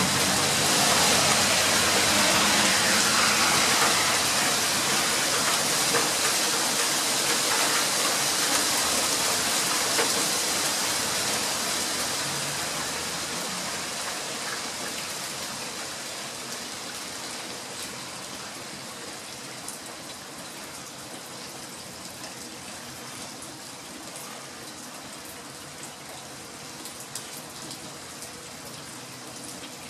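Heavy rain hissing on a house's wooden eaves and roof, with water spilling off the roof edge. About halfway through the downpour eases to a lighter, steady rain with a few separate drips.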